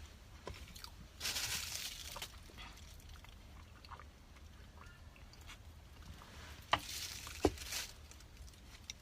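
A person chewing and biting food close to the microphone, with two louder crunchy stretches, about a second in and near the end, and a few soft clicks of the mouth.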